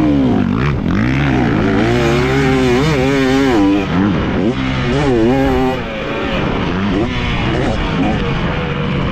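Dirt bike engine revving up and down as it is ridden on a motocross track, the pitch rising and falling with the throttle. It wavers rapidly around the middle and drops back about six seconds in.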